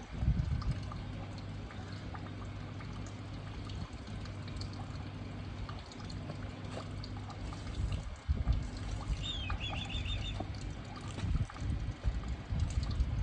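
Water pouring and trickling steadily over a low steady hum. A bird chirps a quick run of high notes about nine seconds in.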